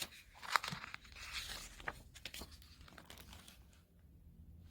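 Paper rustling and light clicks as a picture book is handled and its pages opened and turned; the rustling dies away about three and a half seconds in.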